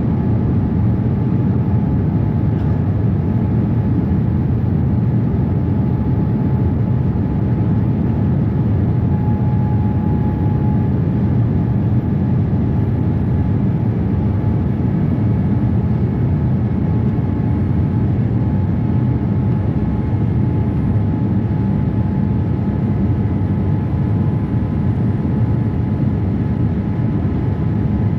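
Cabin noise of a Boeing 787-8 in flight: a steady, even rush of airflow and engine noise with a faint steady tone above it.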